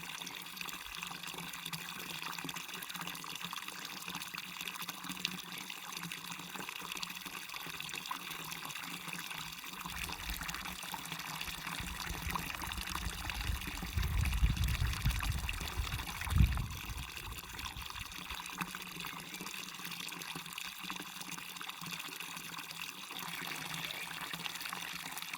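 Waterfall water falling and splashing in a steady, even rush. About halfway through, a low rumble swells for several seconds, with a brief thump near its end.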